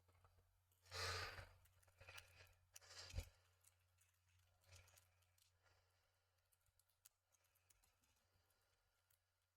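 Near silence. There is a soft rush like a breath out about a second in, then a few faint rustles and a small click.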